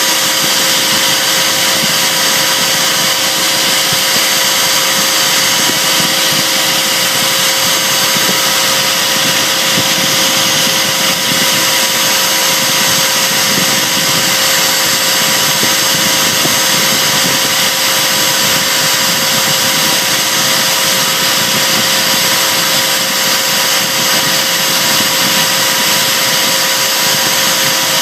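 CNC router spindle running steadily while routing an inlay into a wenge guitar top: a constant whine over a loud hiss, with no breaks.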